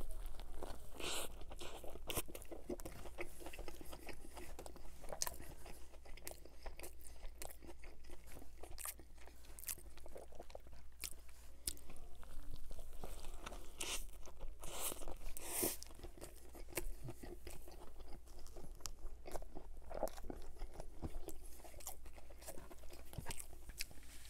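A person biting into and chewing a Burger King double Whopper topped with onion rings, close to the microphone: a bite near the start, then repeated crisp crunches and chewing sounds.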